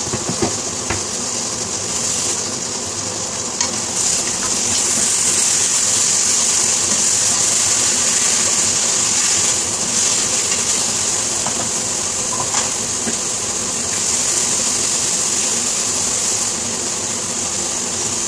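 Chicken wing and potato pieces sizzling as they fry in a pan, stirred with a spatula. There are a few light clicks near the start, and the steady sizzle grows louder about four seconds in.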